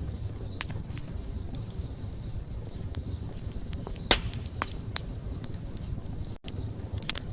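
Wood campfire burning: a steady low noise of the flames with scattered crackles and pops, the loudest pop about four seconds in.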